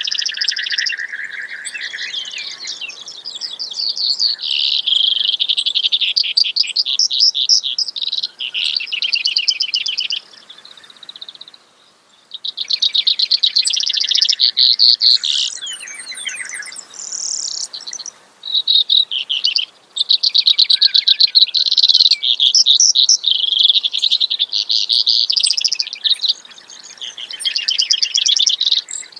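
Brewer's sparrow singing: long songs made of rapid trills, one trilled series giving way to the next at a different speed and pitch, with a pause of about two seconds near the middle.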